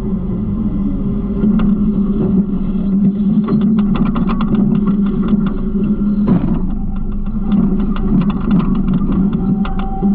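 Garbage truck engine running steadily, with frequent light clicks and rattles over it and one louder knock about six seconds in.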